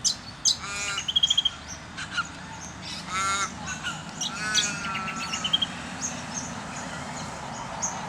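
A crow cawing several times, drawn-out harsh calls, one trailing off in a falling wail. Around it come the short high chirps and a quick trill of other birds.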